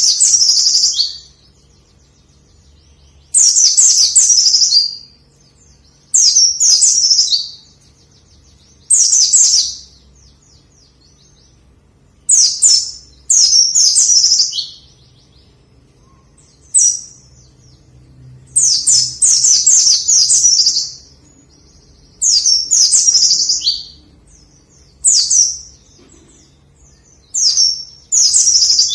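A white-eye (pleci) in full song, giving about ten short bursts of rapid, high, falling chirping notes, one every two to three seconds.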